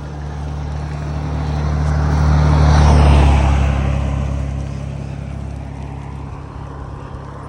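A motor vehicle passing by: engine hum and tyre noise grow louder to a peak about three seconds in, then fade away.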